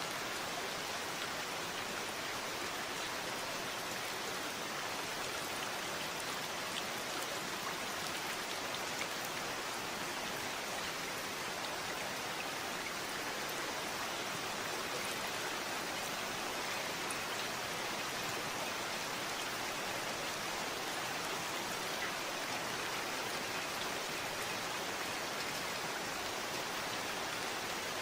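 Steady, even rain falling, with fine scattered drop ticks.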